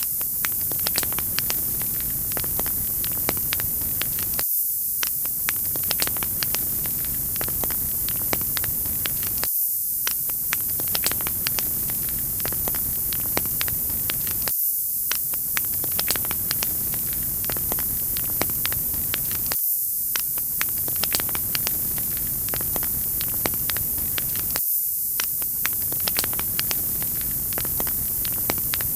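Wood fire crackling in a fireplace: many small sharp pops over a steady hiss, the lower part of the sound dropping out briefly about every five seconds.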